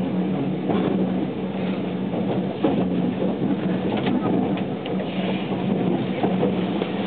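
Running noise inside a JR West 287 series electric train car at speed: a steady low hum over the rumble of wheels on rail, with a few short knocks.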